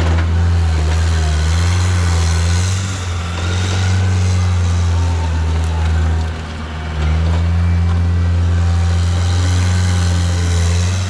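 Diesel engine of a John Deere 323D track skid steer running steadily under load, its note dropping briefly about six seconds in and then coming back up.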